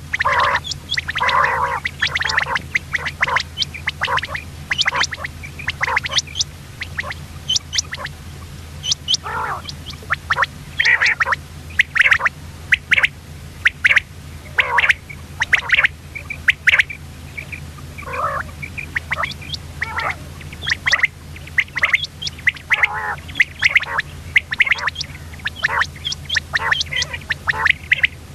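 Common quail calling: many short, sharp calls in quick, irregular series, over a steady low hum.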